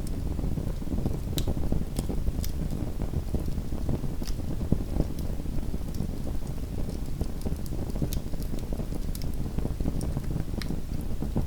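Small wood fire burning in a home fireplace: a steady low rumble of the flames with scattered sharp crackles and pops every second or so.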